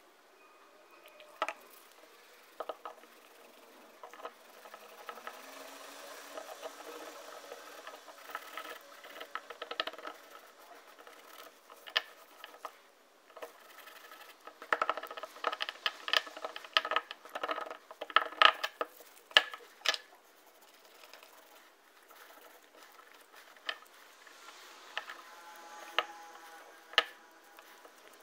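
Irregular workshop handling sounds: short scrapes and sharp clicks and knocks, busiest in the middle, with a faint whirr near the end.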